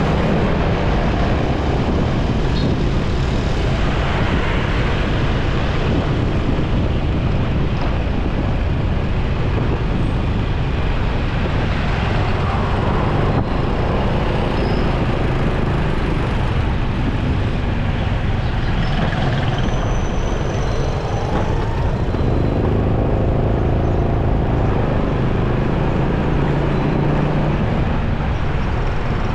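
A motorcycle running along a busy city road, its engine hum mixed with wind and the steady noise of surrounding traffic. Partway through, another vehicle's engine is heard close by for a few seconds.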